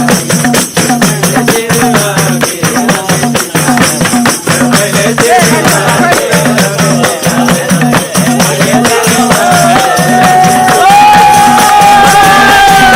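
Nepali folk song accompaniment without voices: a hand drum keeps a steady repeating rhythm under shaking jingles of tambourine or rattle. About ten seconds in, a long held melody note comes in over it.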